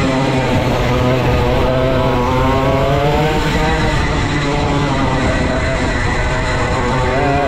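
Vintage go-kart's 135cc Sudam engine running hard on track, its pitch slowly rising and falling as it accelerates and backs off.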